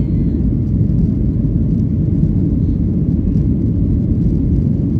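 Boeing 737-800's CFM56-7B jet engines at takeoff power with rushing air, heard as a loud, steady deep rumble inside the passenger cabin during the takeoff.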